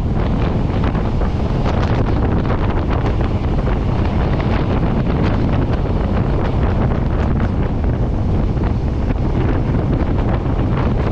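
Steady wind noise on the camera microphone over the running noise of a moving regional train.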